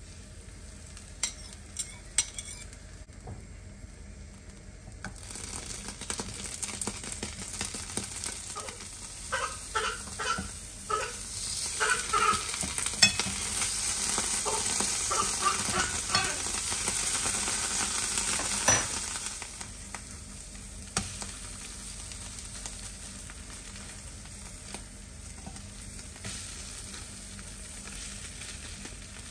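Food frying in a pan: a steady sizzle, stirred with a utensil that scrapes and clicks against the pan. The sizzle grows loudest about halfway through and drops back near two-thirds of the way in, then carries on more quietly.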